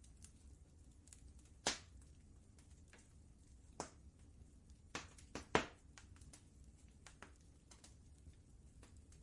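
Wood fire crackling in a fireplace: irregular sharp pops and snaps, a few of them louder, about a second and a half in and a cluster around five to six seconds in, over a faint low steady rumble.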